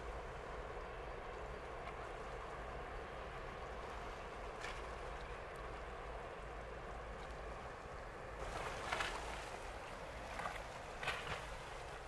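Steady low rumble and wash of a ship in the harbour, with a few short sharp sounds in the last few seconds.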